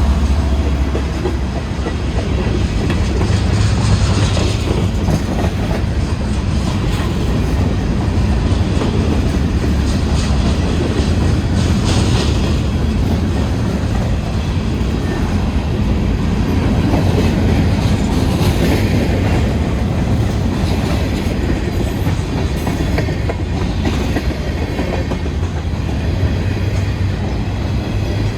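Freight train cars rolling past: a steady, loud rumble with the clatter of wheels over the rail joints.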